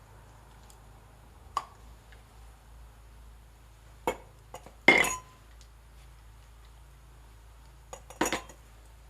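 Hard objects clinking and clattering as they are handled: a few separate knocks, then a louder clatter about five seconds in with a short ring, and another clatter near the end.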